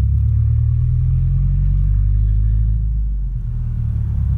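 1996 Ford Ranger's 2.3-litre four-cylinder engine running through a loud exhaust, a steady deep rumble that dips slightly about three seconds in.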